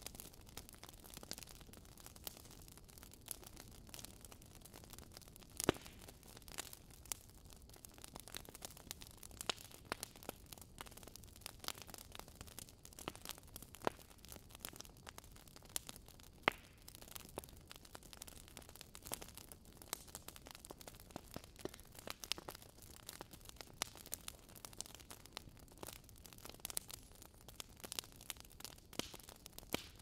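Bonfire of branches and timber burning, crackling steadily with irregular sharp pops over a low hiss; the loudest pop comes about six seconds in.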